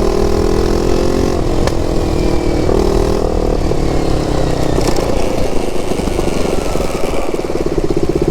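KTM RC390's single-cylinder engine running under way, with a few sharp exhaust pops. Near the end the engine note settles into a slower, even beat.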